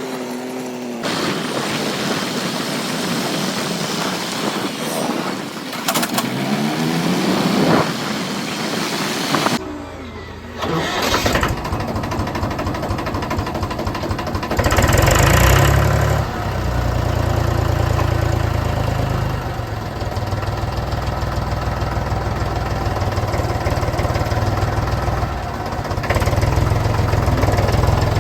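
Tractor's diesel engine running, with a heavy, pulsing low rumble. The sound changes abruptly about ten seconds in, and the engine gets briefly louder a few seconds later.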